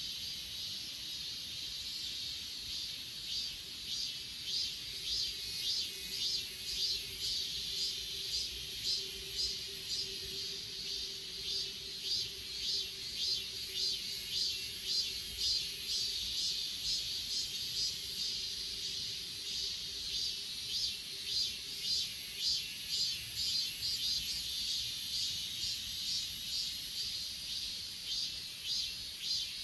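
Chorus of crickets and other grass insects: a steady high trill with a pulsing chirp that repeats a little faster than once a second.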